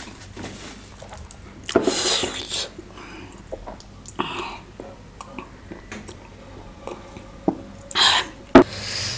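Close-miked mouth sounds of eating: a few short breathy slurps, about two seconds in, about four seconds in and near the end, with small clicks and chewing noises between and one sharp click near the end.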